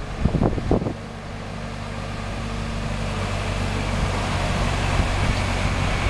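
Motor vehicle engine running with a steady hum, growing gradually louder, after gusts of wind on the microphone in the first second.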